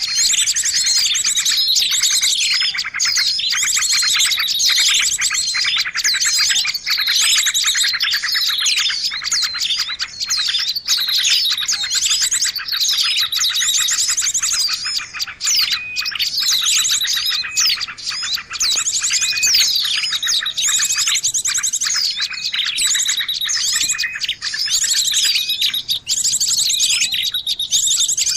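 Bird-lure playback: a busy, unbroken mix of small birds chirping, trilling and whistling over one another, high-pitched and loud, the kind of calling used to draw wild birds in to a trap.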